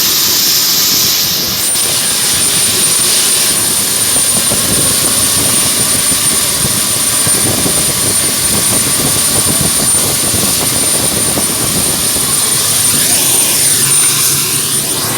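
Ilyushin Il-76's Soloviev D-30KP turbofan jet engines running: a loud, steady jet roar with a thin high whine that sets in about a second and a half in.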